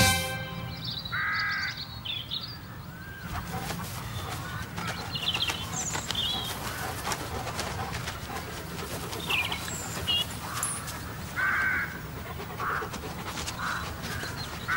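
Birds calling: a few short harsh calls, one about a second in and several more near the end, with higher chirps in between, over a faint steady low hum.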